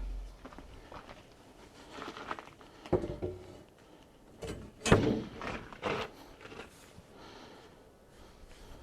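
Scattered knocks, thuds and light rattles of tools and workpieces being handled and set down, the loudest knock about five seconds in. A power tool's low hum dies away in the first moment.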